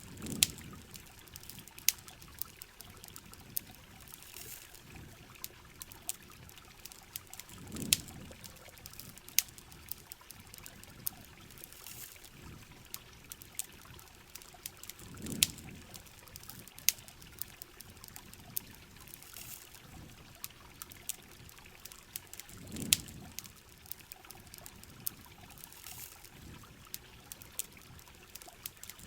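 Steady rain with sharp, irregular crackles and pops from a campfire. A low swell of about a second comes back every seven to eight seconds.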